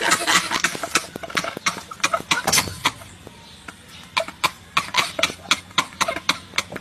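A rapid series of sharp clicks, uneven at first and then about four or five a second.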